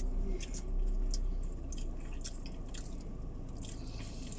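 Two people chewing and biting into chicken pieces: wet, squishy chewing with scattered small mouth smacks and clicks, over a low steady hum.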